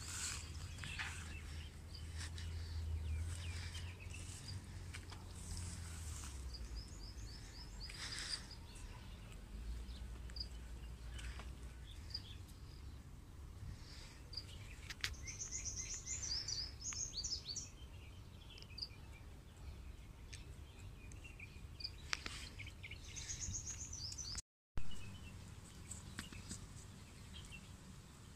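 Small birds chirping and twittering in short repeated phrases over a low outdoor background, with a low rumble in the first few seconds. A sharp click near the end, right after a brief dropout, is the loudest moment.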